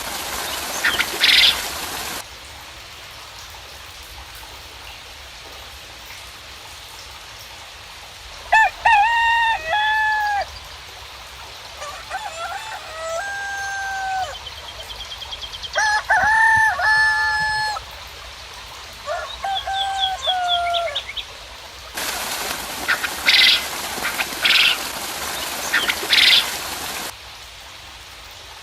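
Rooster crowing four times in the middle stretch, with small birds chirping faintly, over a steady hiss of light rain. Louder bursts of rushing noise fill the first two seconds and return about 22 seconds in.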